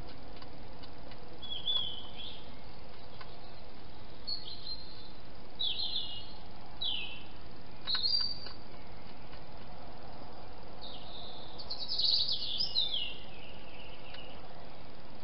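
A songbird singing short, high, falling phrases every second or so, with a quick run of notes about twelve seconds in, over a steady hiss.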